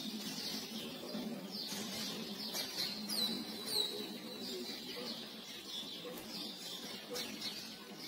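Small birds chirping, with a cluster of quick, high, falling chirps about two and a half to four seconds in, over a faint steady background.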